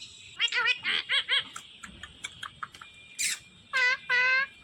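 Pet green parrot calling: a quick run of short chirps in the first second and a half, then a harsh screech about three seconds in and two longer calls near the end.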